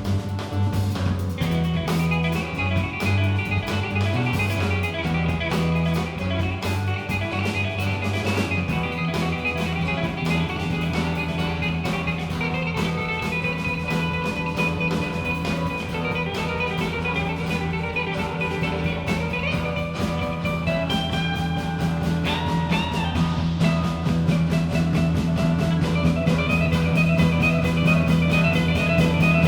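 A live rock band playing an extended instrumental jam, with guitars over a steady held bass.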